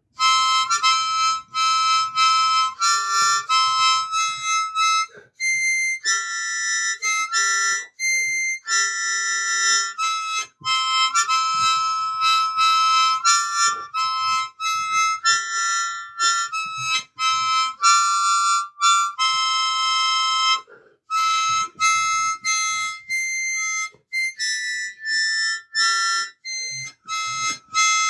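Hohner Little Lady, a tiny four-hole harmonica (mouth organ), played as a simple, high-pitched tune of short held notes stepping between only a few pitches, with brief breath gaps between phrases.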